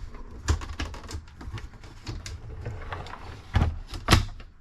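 Plastic parts of a toy wrestling ring being handled: a few sharp clicks and knocks over low handling rumble, with the loudest two knocks close together near the end.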